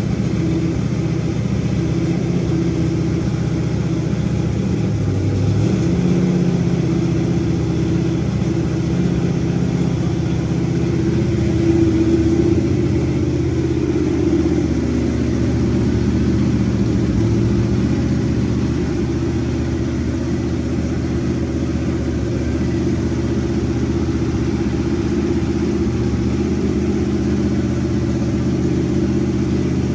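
LS-based 408 cubic-inch stroker V8 running on an engine stand during its first start-up. It runs steadily, and the engine speed shifts up slightly a few times, most noticeably about twelve seconds in.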